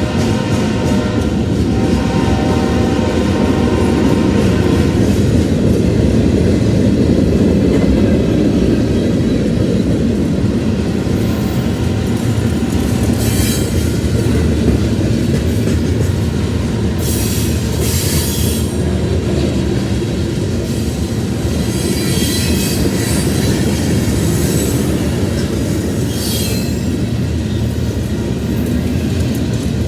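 Freight train cars rolling past with a steady heavy rumble and wheel clatter, broken several times by short high-pitched screeches of wheel flanges. A held tone of several pitches fades out over the first few seconds.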